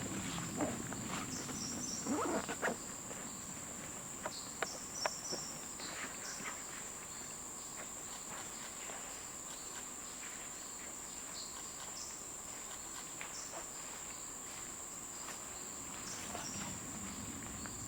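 Steady high-pitched insect drone, with scattered short clicks and rustles, a small cluster of them about two seconds in.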